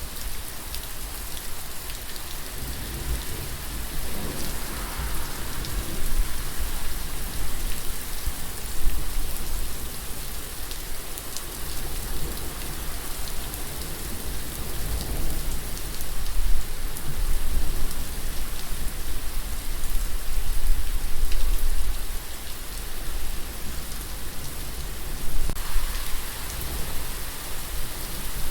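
Steady, dense rainfall pattering on surfaces, with a deep low rumble underneath that swells and fades a few times.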